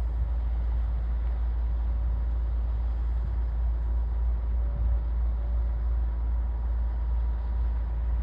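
Steady low rumble of a ship's engine, with a faint constant hum riding over it.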